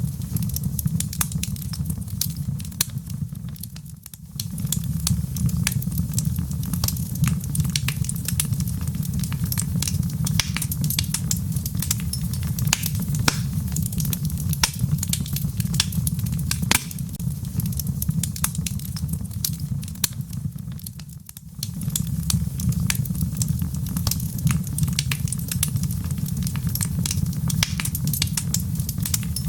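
Wood fire burning in a fireplace: a steady low rumble with dense, irregular crackles and sharp pops. The sound briefly fades twice, about four seconds in and again around twenty-one seconds.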